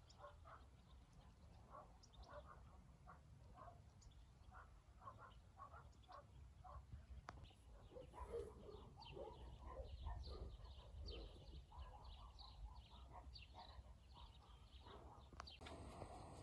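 Faint chatter of birds: many short calls overlapping, busier in the second half, over a steady low background rumble.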